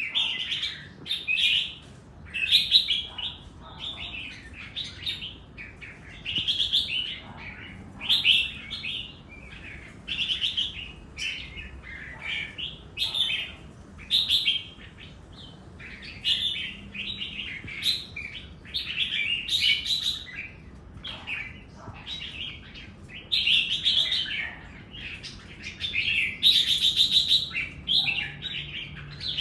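Red-whiskered bulbul singing: short, bright warbled phrases repeated every second or two.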